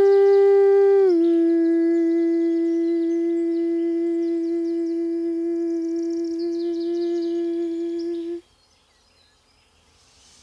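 A man's voice holding one long sung note, stepping down slightly in pitch about a second in and held steady until it stops abruptly near the end. Small birds chirp faintly in the background.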